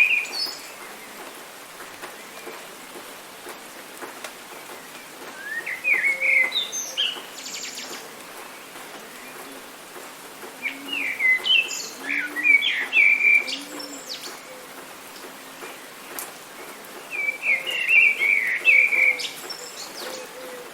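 A songbird singing short phrases of quick chirping notes, one every five or six seconds, over a steady hiss of rain.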